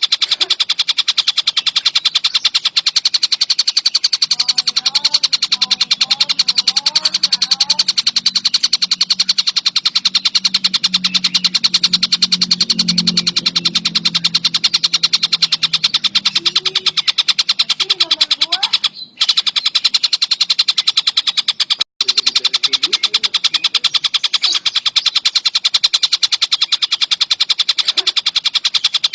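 Tengkek buto kingfisher giving a fast, continuous, high-pitched rattling chatter, broken off briefly twice in the second half. A low hum sits beneath it for a stretch in the middle.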